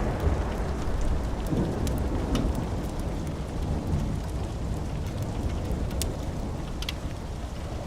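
Steady rain with a deep rumble of thunder slowly dying away, and a few small sharp crackles from a fireplace fire.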